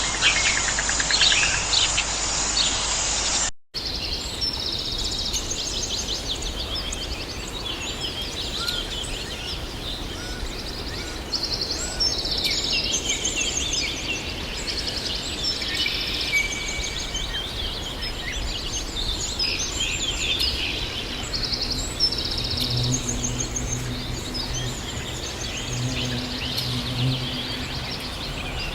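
Several birds singing and chirping, with many short high trills and calls overlapping. A few seconds in the sound cuts abruptly to another recording of birdsong, and near the end a low hum comes and goes twice beneath the birds.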